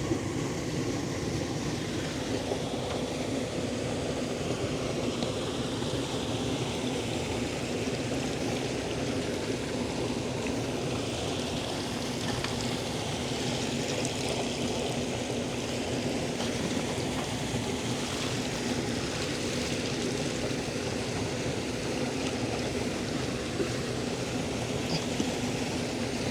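Steady water trickling and splashing, with a faint steady low hum underneath.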